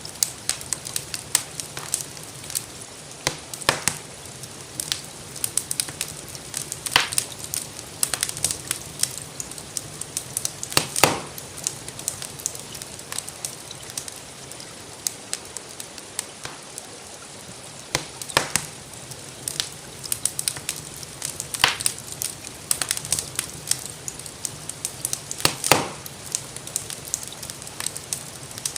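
Wood fire crackling in a fireplace: frequent small pops with a louder snap every few seconds, over a steady hiss of gentle rain.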